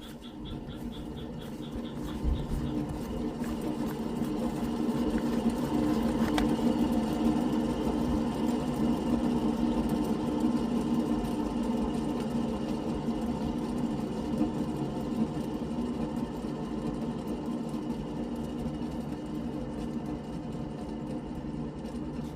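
First-generation Toyota Vitz on the move, giving a steady mechanical whirring drone that builds over the first few seconds, holds, then slowly eases off. This is the abnormal noise from the rear that shows while driving; its cause is not yet known.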